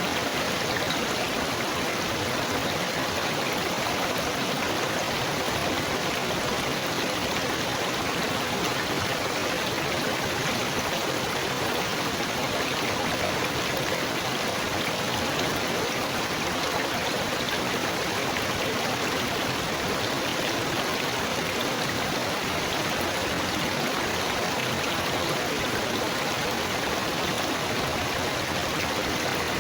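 Steady babbling water, a continuous even rush without breaks or changes.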